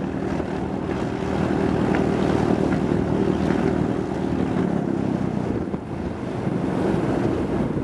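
A piston aircraft engine running with a steady propeller drone, over wind noise on the microphone. The engine tone weakens about six seconds in.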